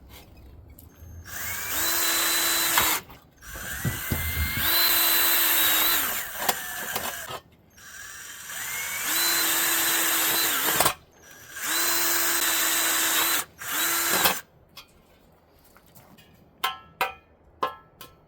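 Power drill boring holes in a forged metal bar: the motor spins up with a rising whine and runs steadily in four runs of two to three seconds each, then a short fifth run. A few light clicks follow near the end.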